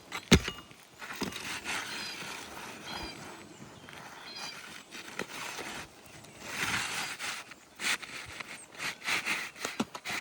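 A replacement asphalt 3-tab shingle is being slid and pushed into place under the course above, making scraping and rustling against the surrounding shingles. A sharp knock comes just after the start, and a run of clicks and knocks near the end. The shingle is too large for the gap.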